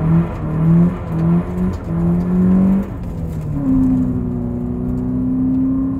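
Honda Prelude's four-cylinder engine heard from inside the cabin while driving. Its pitch rises in short pulls for the first three seconds or so, then holds steady.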